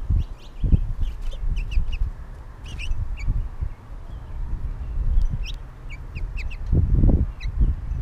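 Small birds chirping at a feeder: many short, quick chirps, some in little runs. Under them run irregular low thuds and rumbles, loudest about seven seconds in.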